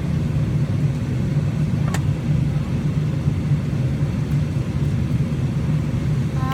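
Steady low rumble of an airliner cabin, engine and air-system hum, while the plane sits on the ground before takeoff. A single short click about two seconds in.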